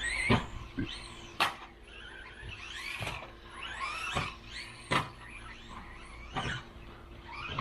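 Brushless electric motor of a Losi Mini-B RC buggy whining up and down in pitch about once a second as the throttle is worked, with two sharp knocks.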